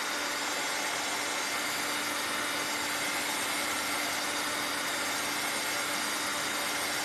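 Hand-held electric hot-air dryer running steadily, a whooshing fan with a constant hum, drying fresh paint on the ornaments.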